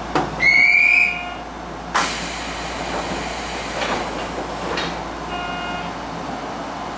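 Inside a Nishitetsu commuter train stopped at a station: a click and a short rising electronic tone, then a sudden hiss of air about two seconds in that fades away, typical of the pneumatic doors working. A few knocks follow, and a second short beep comes near the end over the steady hum of the train.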